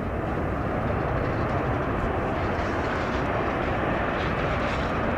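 Jet airliner engines, a steady rushing noise that grows louder over the first second and then holds.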